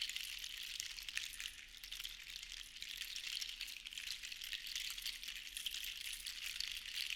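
Sea shells rattling together in a continuous dense clatter of tiny clicks, swelling and easing in slow waves.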